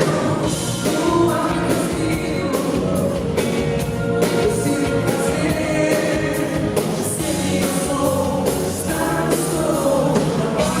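Live pop-rock band performance with singing over drums and cymbals, running continuously.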